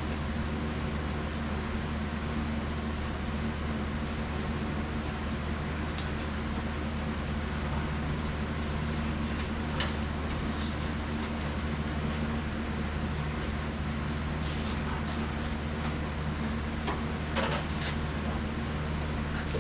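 A steady machine hum with several low tones under a constant hiss, with a few faint, irregular scrapes and taps over it.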